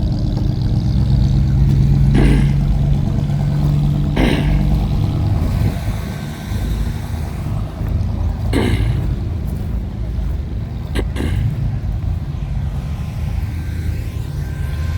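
A car engine idling with a steady low rumble, with a few sharp clicks about 2, 4, 9 and 11 seconds in.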